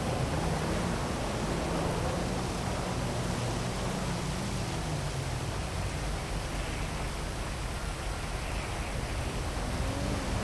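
Steady heavy rain over a city, with a low traffic hum underneath whose engine tones slowly rise and fall.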